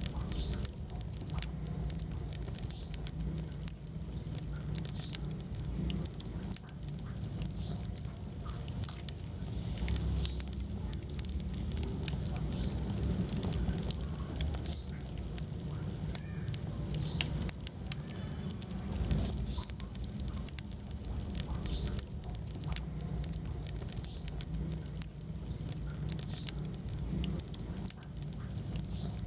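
Wood fire burning in a fireplace: irregular sharp crackles and small pops over a steady low rumble of flames.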